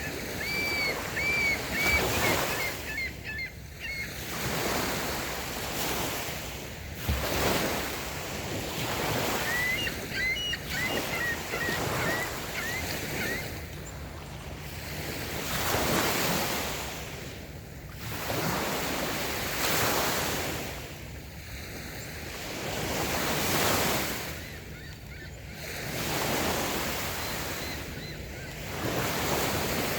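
Light waves breaking and washing up a sandy beach, the surf swelling and falling away every few seconds. A bird gives two quick runs of short chirps, near the start and again about a third of the way in.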